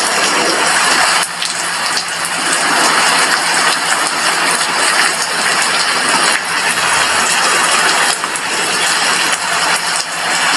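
Steady heavy rain falling on a glass window, a dense, even hiss of drops with small dips in level.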